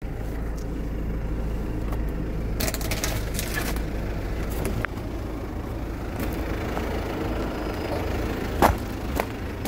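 A vehicle engine running steadily, with a few light clicks a few seconds in and a sharp knock near the end.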